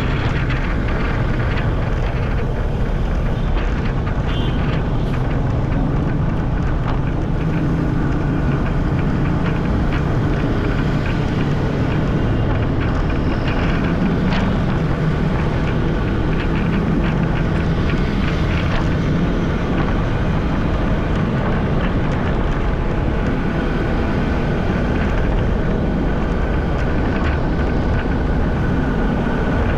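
Steady wind noise on a GoPro Hero 10's microphone during a bicycle ride, heaviest in the low end.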